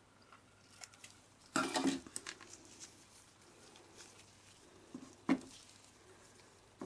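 Scissors snipping and the handling of a strip of insulating tape: a few scattered clicks and rustles, the loudest cluster about one and a half seconds in and a sharp single click near the end.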